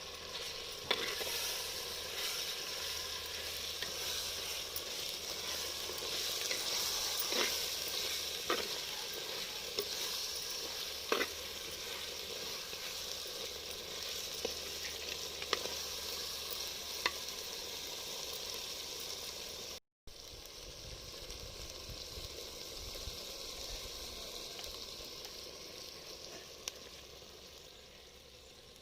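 Chicken pieces sizzling in hot oil with chili powder and salt, stirred in the pan, with a spatula clicking against the metal now and then. The sizzling cuts out for an instant about two-thirds through and goes on a little quieter.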